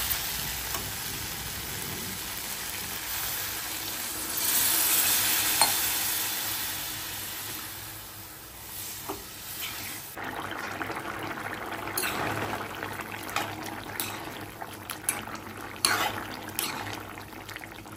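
Mushroom and bamboo-shoot curry sizzling in a wok while a metal spoon stirs it. From about halfway in, the spoon scrapes and clinks against the pan in many short knocks.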